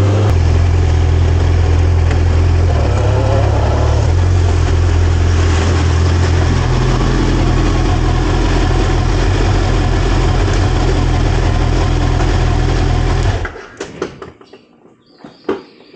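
Kawasaki ZX-12R's inline-four engine running at low revs and idling, then switched off about thirteen seconds in. A few faint clicks and knocks follow.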